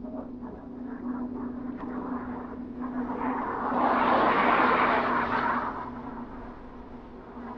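A road vehicle passing close by: it grows louder to a peak about four to five seconds in, then fades away, over a steady low hum.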